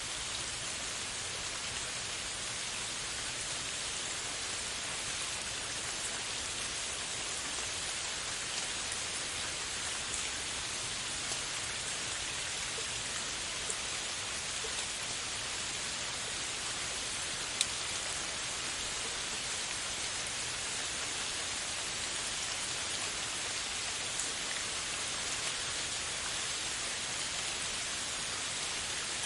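Steady rain falling, an even hiss with occasional single drop ticks, one a little sharper about two-thirds of the way in.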